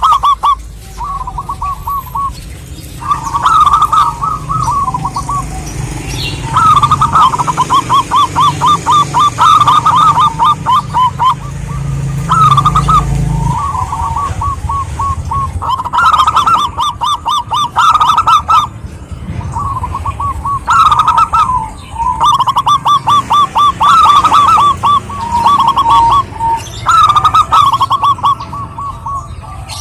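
Zebra dove (perkutut) singing: repeated phrases of fast, staccato cooing notes, each phrase lasting one to three seconds with short pauses between.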